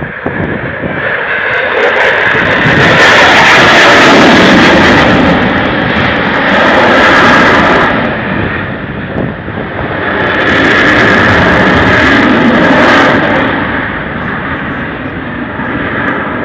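Dassault Rafale fighter jet's twin turbofan engines, a loud jet roar that swells to a peak twice, dipping briefly about eight seconds in and easing off near the end.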